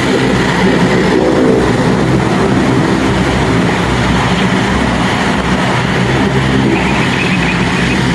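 Aircraft engines running: a loud, steady drone with several low humming tones underneath.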